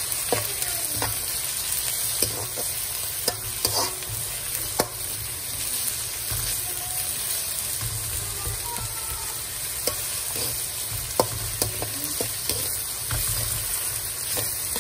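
Chopped onions and tomatoes sizzling in oil in a metal kadai while a metal spatula stirs them, scraping and clicking against the pan now and then.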